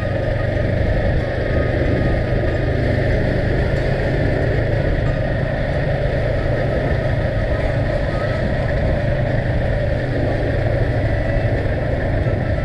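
Vehicle engine running steadily while driving, mixed with an even rush of road and wind noise.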